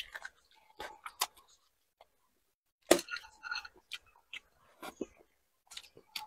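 Close-miked chewing and wet mouth sounds of a person eating spicy fried seafood, broken by sharp clicks and crackles, the loudest about three seconds in.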